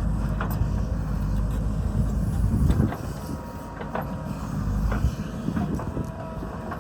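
Heavy road-construction machinery working: a low engine rumble with occasional sharp metallic knocks, under wind buffeting the microphone. The low rumble eases about three seconds in.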